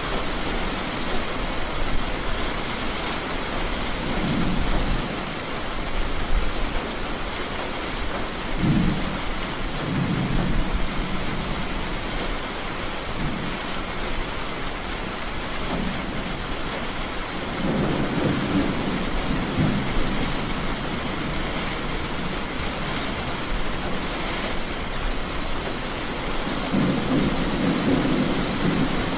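Steady rain falling, with repeated low rolls of distant thunder rumbling under it, the longest about two-thirds of the way through and near the end.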